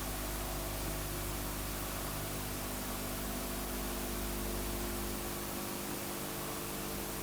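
Steady hiss with a low, steady hum underneath: background noise of the recording, with no distinct event.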